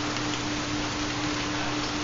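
Steady recorded rain, with a constant low hum running beneath it: the carrier tone of a 4 Hz theta binaural beat.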